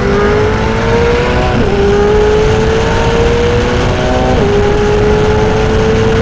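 McLaren 720S twin-turbo V8 with a Novitec exhaust under full-throttle acceleration. The engine note climbs steadily and drops sharply at two upshifts, about one and a half seconds and four and a half seconds in, then pulls on rising.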